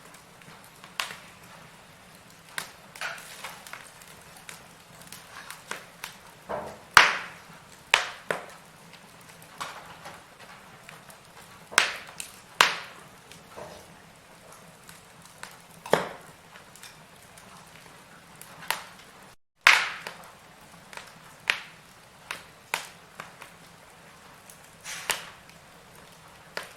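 Firewood burning in a fireplace: irregular sharp crackles and pops, about one or two a second, over a faint low hiss. The sound cuts out for an instant about three-quarters through, then comes back with one of the loudest pops.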